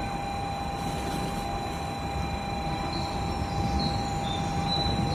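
Japanese Shinkansen bullet train running: a steady low rumble with a constant high whine over it.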